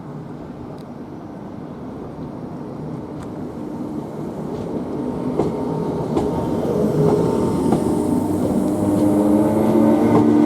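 Northern Class 769 bi-mode unit pulling away on its diesel engines, the engine hum growing steadily louder, with scattered clicks of wheels over rail joints.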